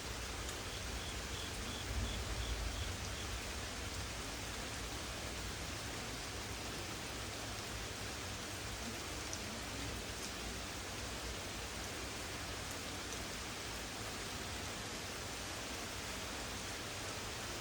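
Steady rain falling during a thunderstorm, with a brief low rumble about two seconds in.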